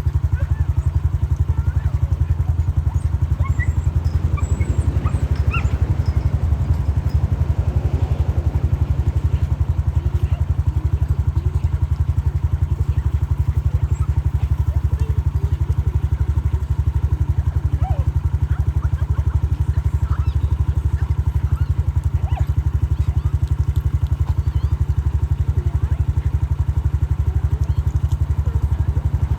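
Motorbike engine running steadily at an even, unchanging pace, its low firing pulses the dominant sound throughout.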